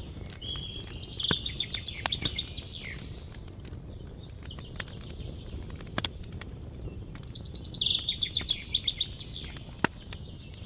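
Campfire crackling with scattered sharp pops over a low steady rustle, while a songbird sings a trilled, falling phrase twice: about half a second in and again about three-quarters of the way through.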